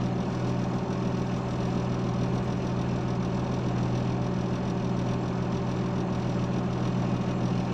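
Diesel engine of heavy road-building equipment idling steadily.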